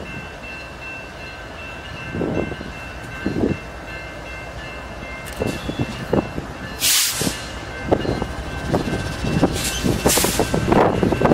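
A freight train led by several BNSF diesel locomotives approaches and starts to pass close by. Its engine rumble grows louder toward the end, with short bursts of hiss about seven and ten seconds in.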